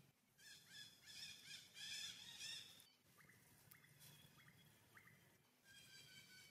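Faint birdsong: a run of quick warbling notes, then four short rising chirps, then a steady high note near the end.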